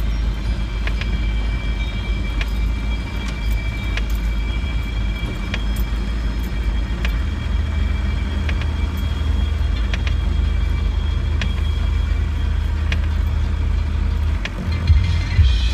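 Land Rover heard from inside the cabin while driving slowly along a rutted lane: a steady low engine and drivetrain drone with a thin, steady high whine above it and scattered clicks and rattles. The low drone grows louder near the end.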